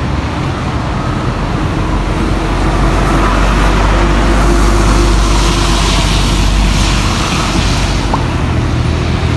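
A motor vehicle passing on a wet road: engine rumble with tyre hiss that swells to a peak about six seconds in and then eases.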